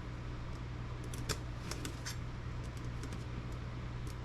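A few light, scattered clicks and taps of small laptop parts and tools being handled during disassembly, over a steady low hum.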